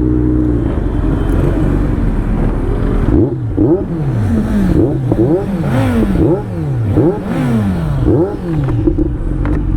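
Kawasaki inline-four superbike engines running steadily, then revved in a quick run of about eight rising-and-falling blips, some overlapping, before settling back.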